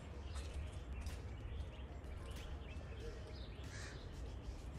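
Wild birds calling and chirping in the background, short scattered calls over a steady low rumble.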